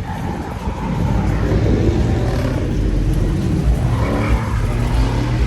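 Performance V8 car engine being revved hard, its pitch climbing twice over a heavy low rumble.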